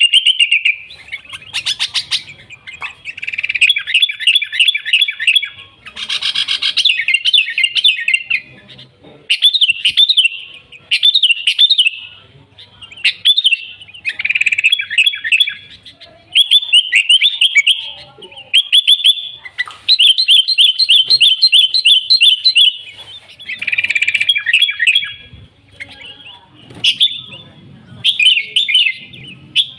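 Sooty-headed bulbul (kutilang) singing: short bursts of quick, chirpy whistled notes, one phrase after another with brief pauses between them.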